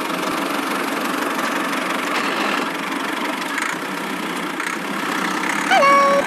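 Steady engine-like running noise, even and unbroken. Near the end a short pitched sound rises and then holds.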